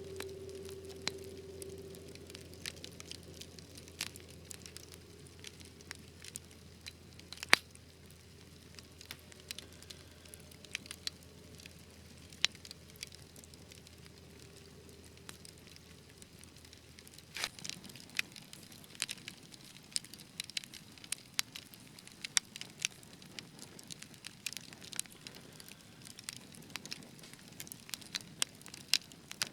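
Wood fire crackling in a fireplace: irregular snaps and pops, with one sharp pop about seven seconds in and the crackling growing busier about halfway through.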